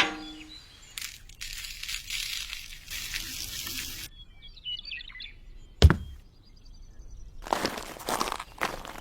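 Short spells of water pouring and splashing, with a bird chirping faintly about halfway through. A single sharp crack just after the middle is the loudest sound.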